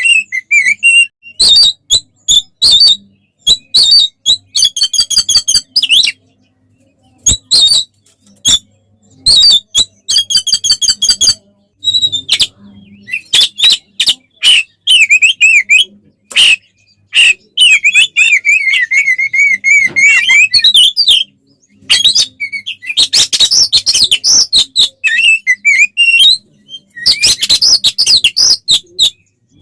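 Oriental magpie-robin (kacer) singing loudly in an agitated, fighting-style song. It delivers rapid bursts of sharp whistled notes and fast chattering trills, broken by short pauses. Near the middle there is a longer warbling run.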